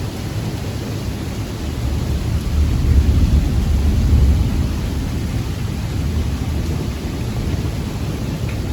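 Thunder rumbling, swelling to its loudest three to four seconds in and then easing off, over a steady hiss of rain.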